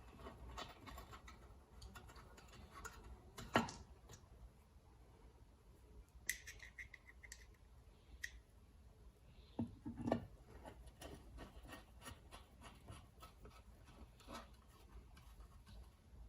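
Faint clicks and taps of small metal carburetor parts and screws being handled and fitted, with a louder knock about three and a half seconds in and again about ten seconds in, and a short rapid ticking about six seconds in.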